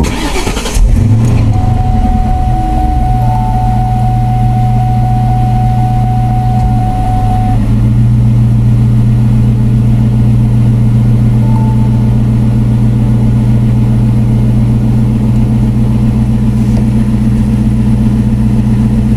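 Car engine catching about a second in, then running steadily at idle with a deep, even hum.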